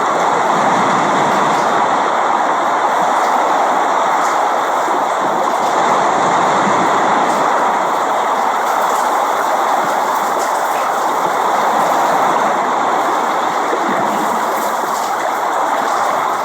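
Steady rain, a dense even hiss with no breaks.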